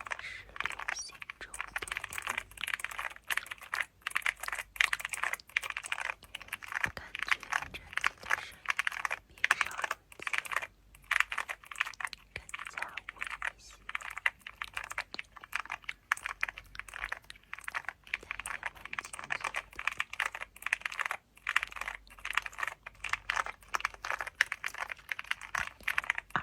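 Fast, continuous typing on a computer keyboard: a dense stream of key clicks, broken by short pauses about eleven seconds in and again about twenty-one seconds in.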